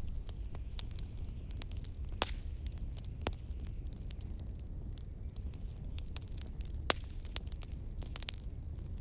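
Log fire crackling, with irregular sharp pops and snaps, a few louder than the rest, over a steady low rumble of blizzard wind.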